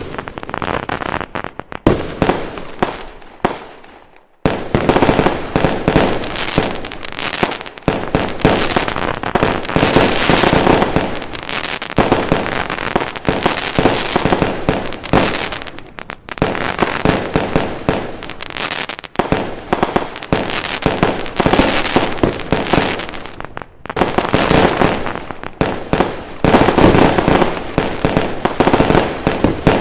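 Fireworks going off in a dense barrage of rapid, overlapping bangs and crackles. There is a short lull about four seconds in, then it carries on without pause.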